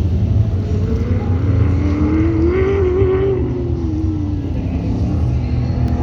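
A car engine running on the course, its pitch rising to a peak about halfway through and then falling away, over a steady low rumble.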